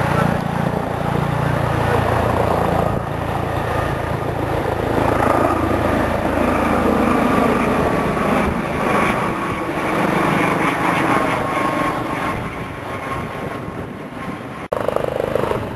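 Fire engine's diesel engine idling steadily at a crash scene, with outdoor vehicle noise around it; the sound breaks off abruptly for an instant near the end.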